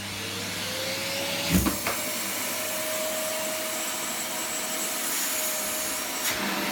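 Electric vacuum cleaner running up to speed, its motor tone rising over the first couple of seconds and then holding steady over a loud rush of air. There is a single knock about a second and a half in.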